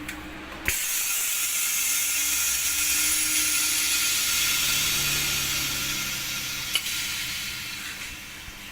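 Steady hiss of air from a small electric blower, such as a hot-air rework gun used in phone screen repair, with a faint whine. It switches on with a click about a second in and tails off near the end.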